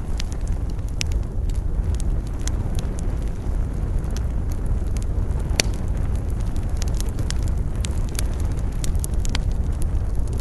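Campfire crackling, with sharp pops at irregular intervals and one louder pop about halfway, over a steady low rumble of wind.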